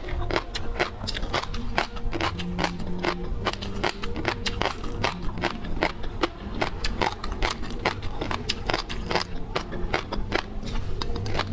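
Close-up eating sounds of seafood: a rapid, irregular run of sharp crunches and wet crackles from chewing and biting.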